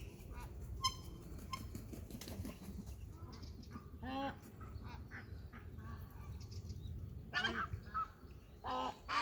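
Birds calling: a loud pitched call about four seconds in, then several more in quick succession near the end, with faint chirps earlier, over a steady low background noise.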